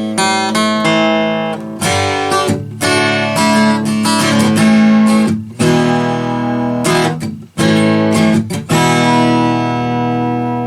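J.D. Lewis Warrior acoustic guitar with phosphor bronze strings being strummed and picked in ringing chords, heard through its pickup and an electric guitar amp. The chords break off briefly twice past the middle before the playing picks up again.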